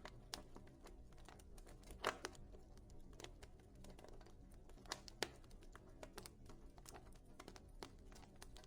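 Wood fire in a fireplace crackling faintly, with irregular sharp pops over a low steady rumble. The loudest pop comes about two seconds in, and a few more follow around five seconds in.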